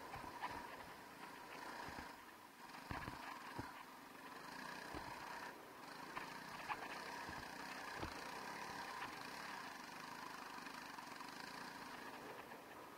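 Honda CRF300L Rally's single-cylinder engine running at a steady, unchanging pitch, with scattered short knocks.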